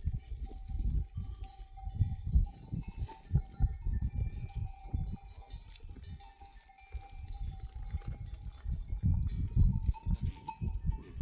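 Bells on a flock of sheep ringing and clinking as the animals move, over irregular low thuds and rumbles.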